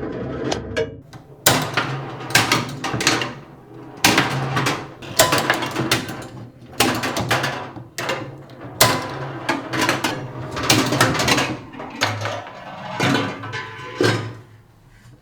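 Restored 1920s mechanical football arcade machine being worked: a run of sharp clacks and rattles from its metal-and-wood mechanism, about one a second at uneven spacing, stopping just before the end.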